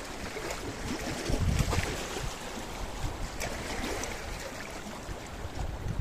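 Sea waves washing against a rocky shore, with a louder surge about a second and a half in and water sloshing and trickling among the rocks.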